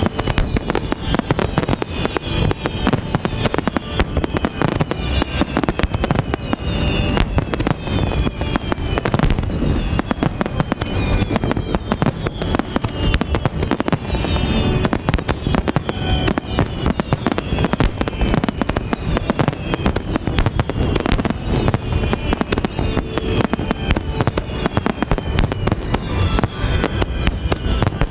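Fireworks finale barrage: shell bursts and crackling follow one another so closely that there is no gap. High whistles fall in pitch over them again and again.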